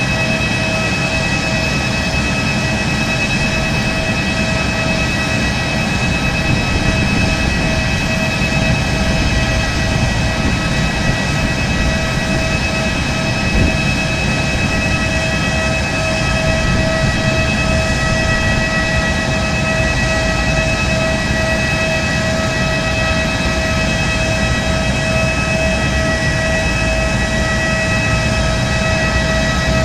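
Boeing 737 jet engine running steadily, a constant whine of several held tones over a loud, even rush of noise.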